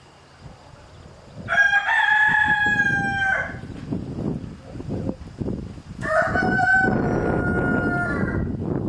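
Rooster crowing twice, each crow about two seconds long with a slight fall in pitch, the second starting about six seconds in.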